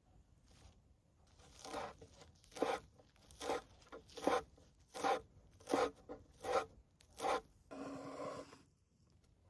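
A run of about eight short scraping strokes, evenly spaced a little under a second apart, then one longer scrape lasting about a second: food being worked by hand, such as grating or cutting.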